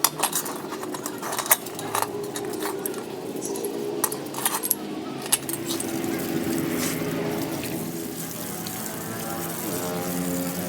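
Loose metal parts or tools clinking several times in the first five seconds, over a steady machine hum that rises in pitch near the end.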